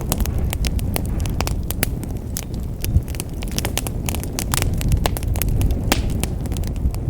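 Wood fire burning in a fireplace: a steady low rumble of flames with frequent irregular crackles and pops from the burning logs, one sharper pop about three seconds in.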